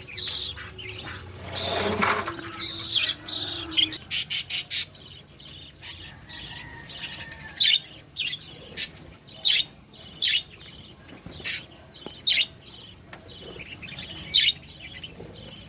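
Budgerigars chirping in short, sharp calls at irregular intervals.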